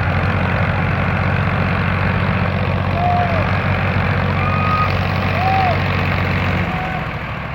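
Massey Ferguson tractor's diesel engine running steadily, easing off slightly near the end, with a few short rising-and-falling pitched calls heard over it.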